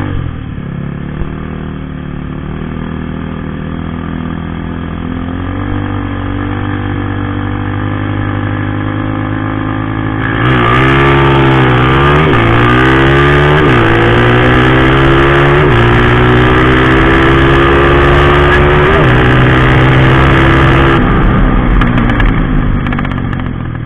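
Drag-racing motorcycle engine running with slowly rising revs, then going to full throttle about ten seconds in and pulling hard through several upshifts, its pitch climbing and dropping back at each gear change. It cuts off a few seconds before the end and the sound fades away.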